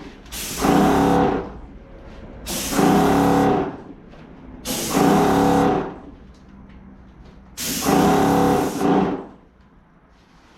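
Wagner electric paint sprayer spraying undercoat in four bursts of about a second each, roughly every two seconds: a buzzing pump hum with a hiss of paint mist, stopping between trigger pulls.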